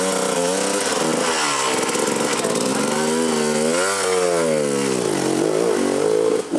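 Dirt bike engine revving up and down as the throttle is worked, its pitch climbing to a peak about four seconds in, falling away, then rising again near the end.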